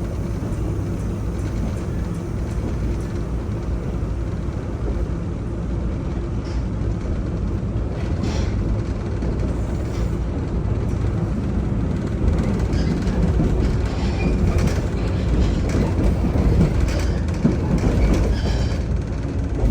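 Running sound heard inside the motor car of a JR West 103 series 3500 electric train: a steady low rumble of wheels and traction motors on the rails. Scattered rail clacks and knocks come through in the second half.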